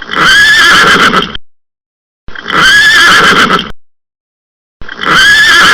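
Horse whinnying: three loud neighs, each about a second and a half long, with short gaps between them. All three look like the same call.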